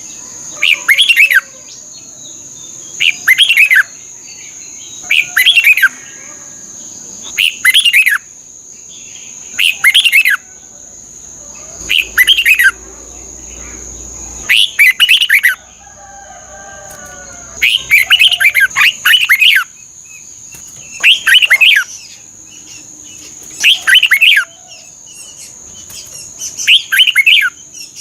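Red-whiskered bulbul singing short, bright, warbling song phrases, repeated about every two to three seconds, with a steady high thin whine underneath.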